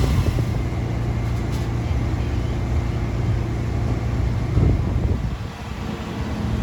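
Steady low hum of an engine running, easing off slightly about five seconds in.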